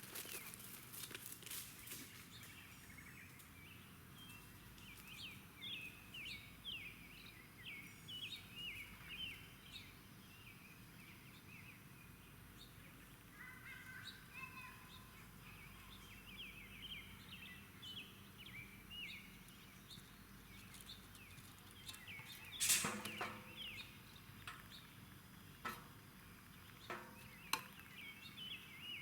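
Small birds chirping in quick, busy runs of short high calls, with a lower call near the middle. A few sharp knocks come in the second half, the first of them the loudest sound.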